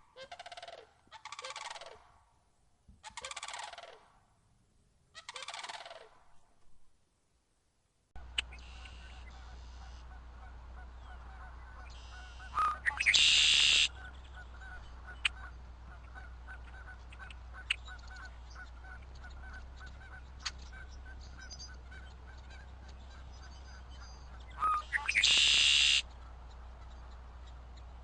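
Large birds calling loudly about five times, each call about a second long, over the first eight seconds. The sound then changes abruptly to a steady low hum with faint, regular ticking and two short, sharp, high-pitched bursts, one near the middle and one near the end.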